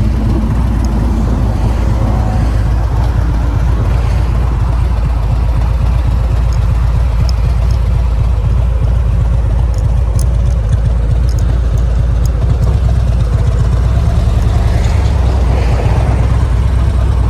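Harley-Davidson Road Glide being ridden: a steady low rumble of engine and road noise.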